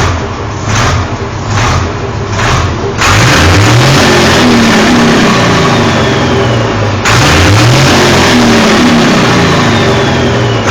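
Turbocharged Cargo 380 diesel engine in a Major tractor puller, blipped in short revs about one every 0.8 s. About three seconds in it is held at high revs with the pitch climbing, backs off briefly about seven seconds in, then revs up again.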